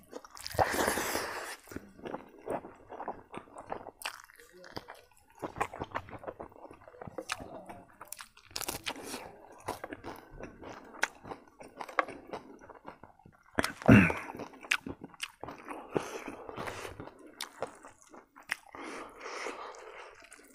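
A person chewing and biting food close to the microphone, eating with his hands: dried salted fish and omelet curry with rice. Many wet mouth clicks and smacks throughout, with a louder crunchy burst about a second in.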